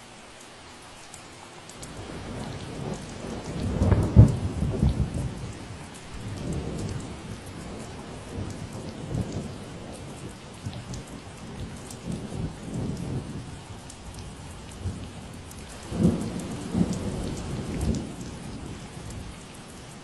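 Steady rain falling, with a long roll of thunder rumbling in about two seconds in, loudest near four seconds and again near the end before fading.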